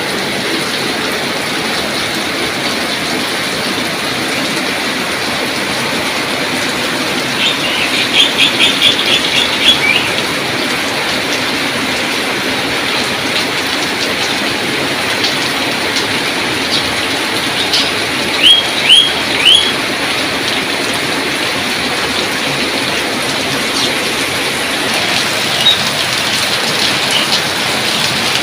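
Steady rain falling. A bird calls over it: a quick run of about eight short chirps around 8 seconds in, three sharp chirps near 19 seconds, and a single faint chirp or two near the end.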